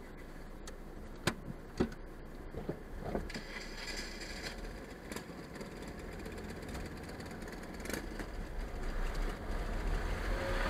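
Car engine running, heard from inside the cabin, with a low rumble that grows louder as the car pulls away over the level crossing. Two sharp clicks come between one and two seconds in.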